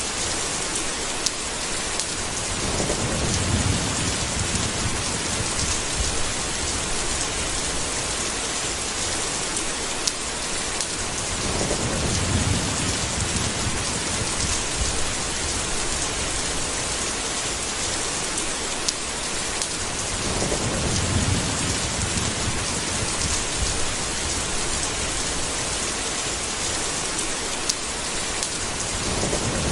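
Steady heavy rainstorm hiss with a low rumble of thunder rolling in about every nine seconds, and a few sharp drip ticks.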